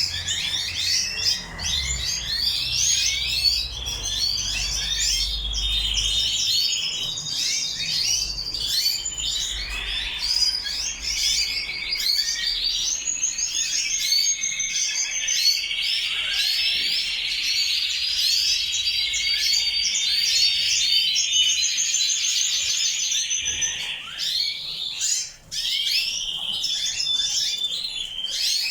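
Many colour canaries singing at once: a dense, continuous chorus of rolling trills, warbles and chirps.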